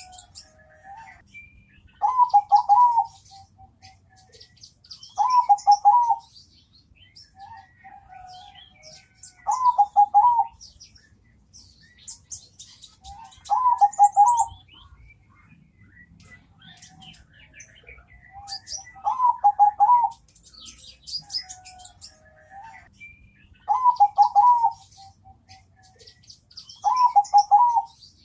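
Zebra dove cooing: seven low, loud coo phrases of several quick notes each, repeated every four to five seconds. Fainter high chirping of other small birds runs between them.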